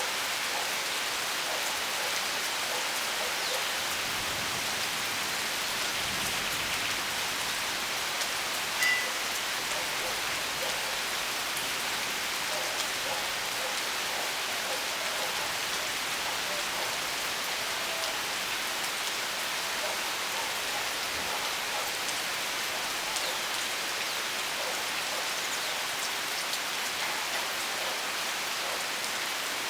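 Steady rain falling, a dense patter of drops. One brief high note sounds about nine seconds in.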